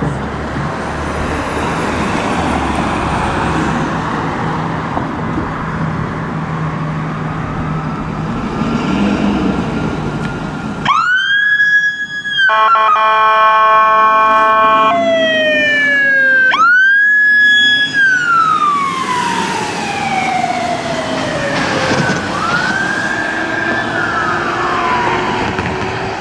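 Fire apparatus responding under emergency lights and sirens. Faint siren wails over street traffic give way to a loud siren that rises sharply, then an air horn chord blasting for a few seconds. The siren then winds up and falls away slowly twice.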